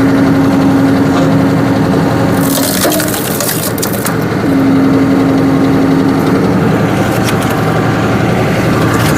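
Tractor engine running the hydraulic log splitter while the wedge forces into a big log. A steady whine holds for the first few seconds and again in the middle, and the wood cracks and splinters in a run of sharp snaps about two and a half to four seconds in.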